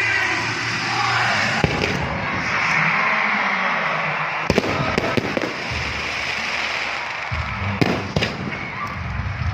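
Fireworks display: a dense crackle with several sharp bangs, about 1.5 s in, twice around 4.5 to 5 s, and twice near 8 s, with music playing underneath.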